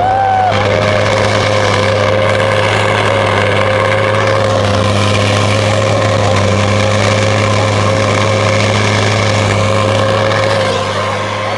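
A truck engine running loud and steady at constant revs, its level dropping slightly near the end.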